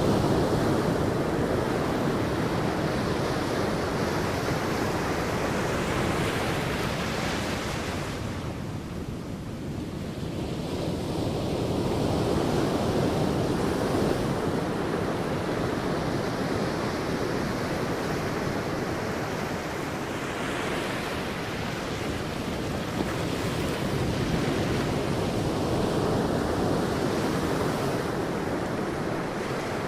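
Sea waves breaking on a beach: continuous surf that eases off briefly about nine seconds in, then swells again as the next waves come in.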